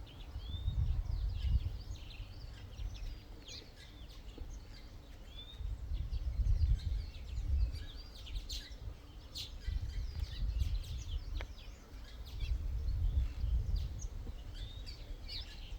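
Many small birds chirping and twittering, short calls and quick whistles overlapping throughout. Under them, a low rumble swells and fades several times.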